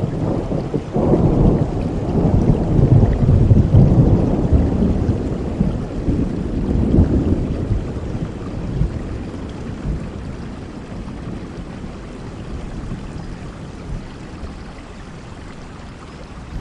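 A thunderstorm: a long roll of thunder swells about a second in and rumbles heavily for several seconds. It comes back weaker and fades out over steady rain.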